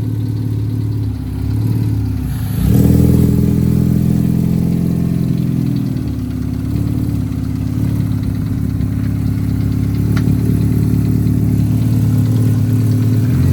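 Hyundai Accent's four-cylinder engine running with the power steering pump removed; its note steps up and gets louder about two and a half seconds in, eases back a few seconds later, then runs steadily.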